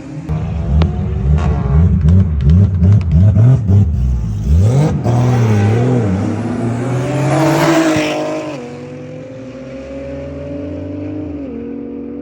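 Performance car engine revved hard in quick repeated blips, then a rising run of revs that peaks about two-thirds of the way through, settling to a steadier lower engine note that drops once more near the end.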